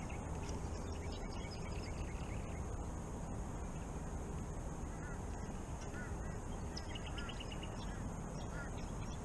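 Birds calling across calm water: scattered short chirping and arched notes, with a quick run of repeated calls about seven seconds in, over a steady low hiss.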